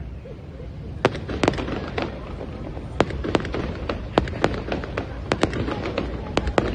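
Fireworks going off. After about a second of low rumble, a quick, irregular run of sharp cracks and bangs begins, several a second, over a continuing low rumble.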